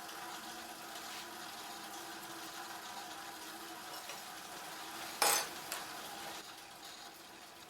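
A faint steady hum, then one sharp metallic clink about five seconds in, with a smaller knock just after: metal pieces knocking together as they are handled or set down.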